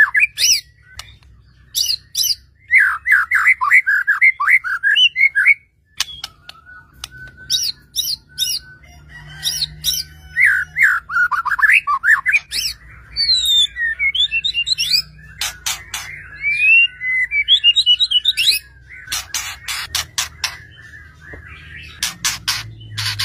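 White-rumped shama (murai batu) singing in rapid, varied phrases: runs of quick falling chirps, sharp clicking notes and rising and falling whistles, with a short break about six seconds in.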